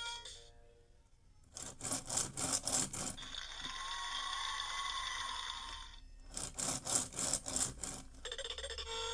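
VTech Go! Go! Smart Wheels toy race car playing its electronic sound effects: a run of rapid rasping clicks, a steady buzzing tone, another run of clicks, then a short electronic tune starting near the end.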